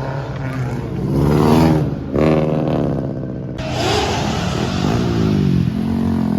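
Car engines revving, the pitch climbing and falling several times in quick succession.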